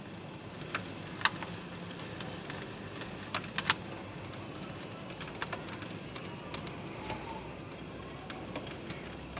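Foxtail millet seed and chaff running through a seed cleaning machine on its second pass: a steady hiss with scattered light ticks of falling grains.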